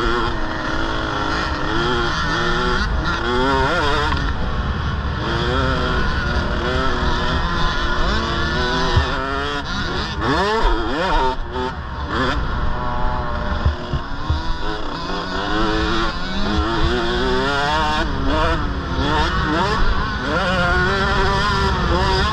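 KTM 65 mini motocross bikes' 65cc two-stroke engines revving, their pitch rising and falling again and again, with several engines overlapping at different pitches.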